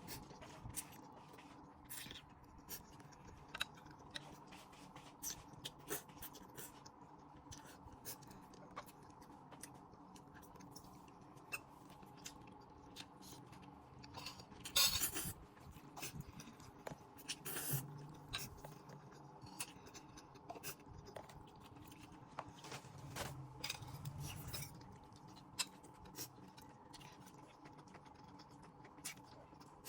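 Scattered light clicks and taps of utensils and dishes, with a brief louder scraping rustle about halfway through, over a faint steady hum.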